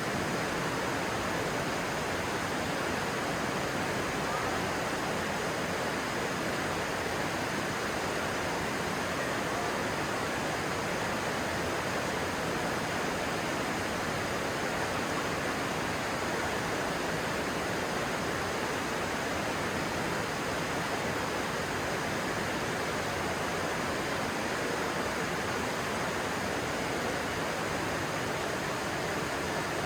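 Stream water rushing steadily, an even hiss without breaks.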